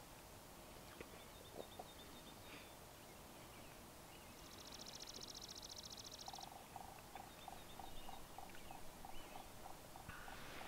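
Faint outdoor quiet with distant bird calls: a fast, high trill lasting about two seconds, then a lower note repeated about four times a second for several seconds.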